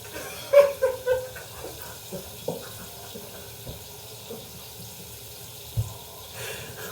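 Water running from a tap into a sink, with splashing and a few short knocks.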